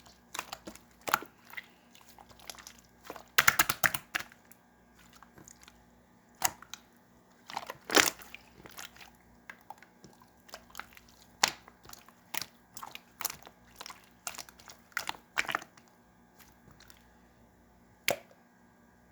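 Clear yellow slime being pressed and stretched by hand, giving irregular sticky clicks and pops. There is a quick flurry of pops about three and a half seconds in and a louder pop at about eight seconds.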